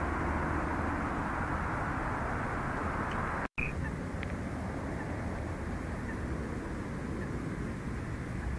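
Steady low outdoor rumble, with a few faint bird chirps. The sound cuts out for an instant a little over a third of the way in.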